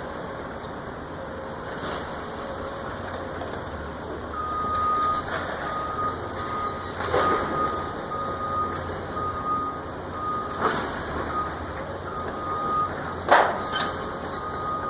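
A heavy machine's reversing alarm beeping over its engine running, from about four seconds in. Three crashes of demolition debris land about three seconds apart, the last the loudest.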